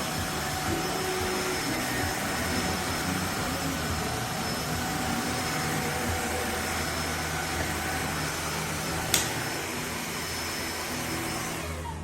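EUREKA cordless wet-dry hard-floor vacuum running steadily: a constant rush with a thin steady whine over it, and one sharp click about nine seconds in. It dies down near the end.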